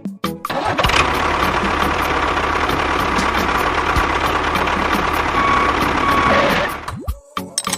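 A motor or engine running steadily for about six seconds, a rough mechanical noise with a low hum, starting about half a second in and stopping near the end. Music is heard before it starts and after it stops.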